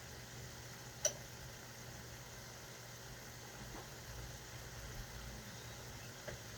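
A steady low hum with a single sharp, ringing clink about a second in, and a couple of faint clicks near the end.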